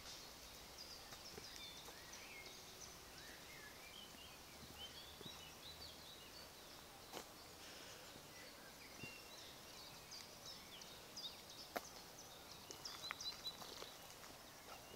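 Faint songbirds singing: many short chirps and quick whistled notes, over a quiet background hiss. Two sharp clicks stand out, the louder one near the end.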